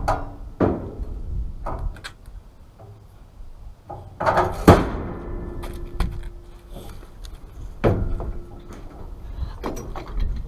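A series of sharp clanks and knocks of heavy metal parts being handled, the loudest about four and a half seconds in, with a short metallic ring after it and again about eight seconds in.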